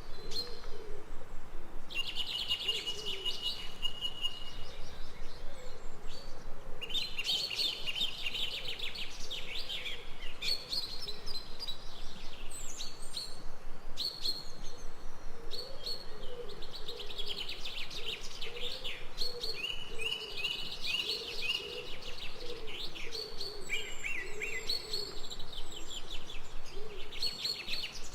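Several birds singing: bursts of rapid high chirps and trills come and go every few seconds, over a lower, wavering call that keeps repeating.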